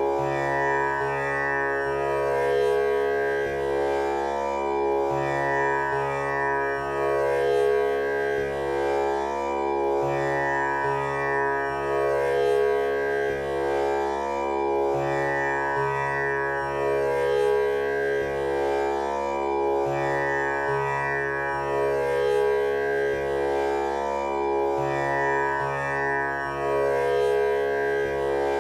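Tanpura drone tuned to C# for a male voice: its strings plucked in a repeating, unhurried cycle, each one ringing on with a rich buzzing overtone shimmer so that the sound never breaks.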